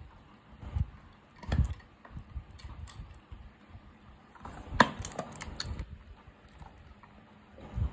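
An animal chewing mutton: irregular wet crunches and clicks of teeth, with a few dull thumps and one sharper crack about five seconds in.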